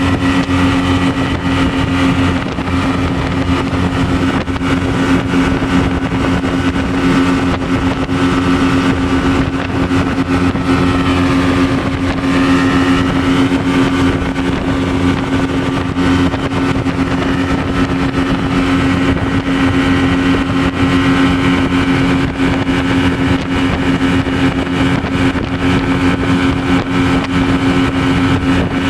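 Speedboat engine running steadily at speed: one constant droning tone over a continuous rush of noise.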